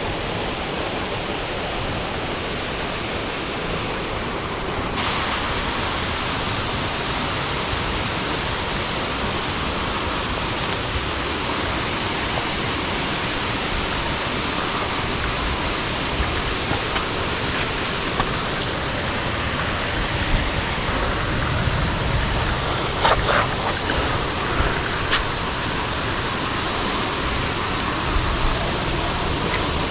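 Steady rush of falling water from heavy rain and the runoff cascades it feeds, a continuous hiss that gets a little louder and brighter about five seconds in. A few short clicks or taps come through after the middle.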